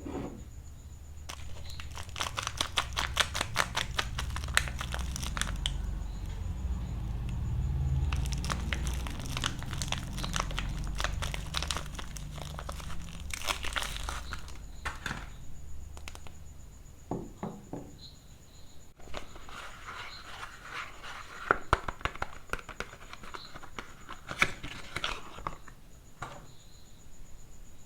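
Wrappers on bars of soap being crinkled and torn open by hand: dense, rapid crackling in two long stretches with a quieter pause between them.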